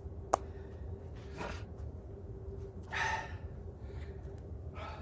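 A man breathing out hard in bursts while doing pull-up reps, roughly one breath every second and a half, the loudest about three seconds in. A sharp click comes just after the start.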